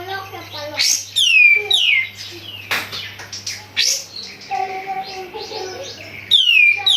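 Kapas tembak songbird singing loudly: sharp whistled notes that slide steeply down in pitch, repeated every second or so, with lower warbling phrases between them. A faint steady low hum runs underneath.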